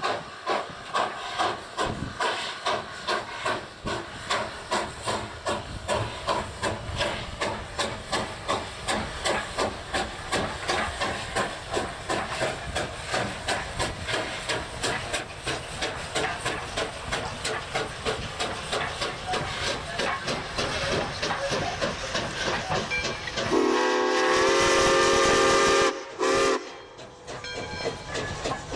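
Steam locomotive working, its exhaust chuffing in quick, even beats. About twenty-three seconds in, its steam whistle blows one long steady blast and then a short one.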